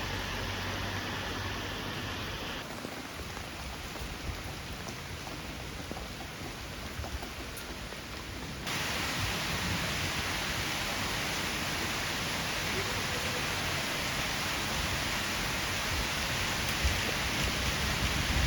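Steady rain falling, an even hiss of water. It changes abruptly in brightness and level about 3 seconds in and again about 9 seconds in.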